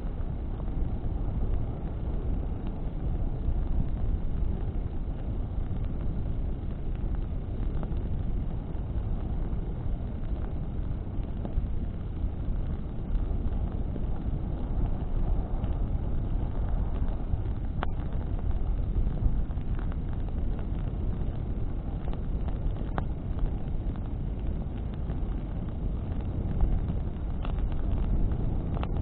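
Bonfire burning in the wind: a steady low rush of wind and flames, with a few sharp crackles from burning branches scattered through it.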